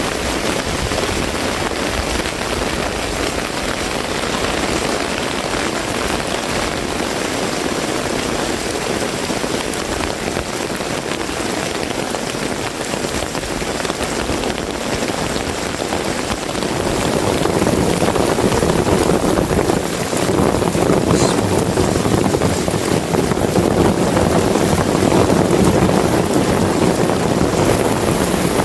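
Heavy rain falling steadily. About two-thirds through, the rush grows louder and deeper and holds there.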